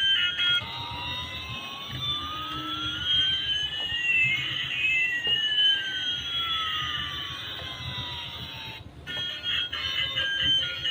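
Electronic sound effect from a battery-powered toy's sound chip: two synthetic tones glide steadily in opposite directions, one rising and one falling, crossing about halfway through and stopping abruptly near the end.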